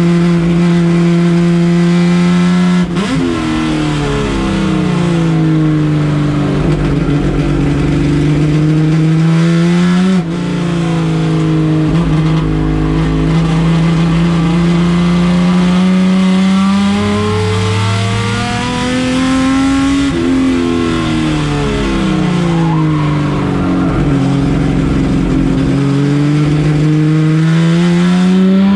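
Race car engine running hard, its pitch rising through the revs and dropping sharply about 3, 10 and 20 seconds in. After each drop it sinks lower for a few seconds as the car slows, then climbs again under throttle.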